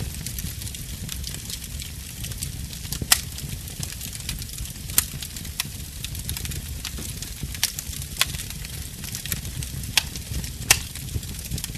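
Fireplace fire crackling steadily over a low rumble, with several sharp pops scattered through, the loudest about three seconds in and near the end.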